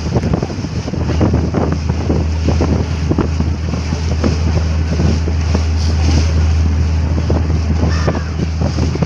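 Catamaran ferry's engines running with a steady low drone, under wind buffeting the microphone and the rush of sea water past the hull.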